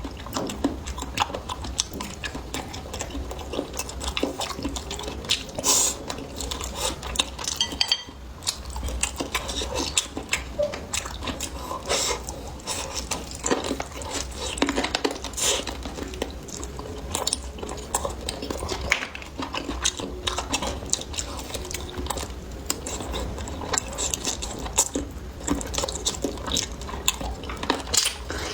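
Close-miked eating: utensils clicking and tapping against bowls and plates, with chewing, over a steady low hum.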